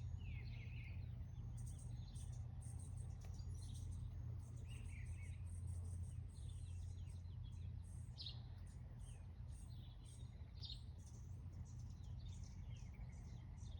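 Small birds chirping and twittering repeatedly in short high calls and trills, over a steady low hum.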